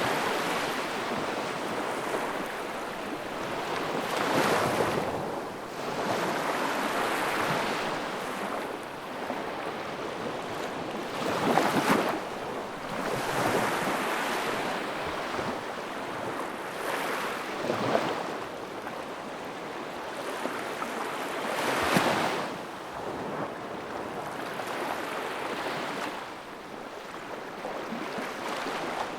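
Wood fire burning in a fireplace: a steady rushing hiss that swells and fades, with crackles and a few sharper pops, the loudest near the middle and later on.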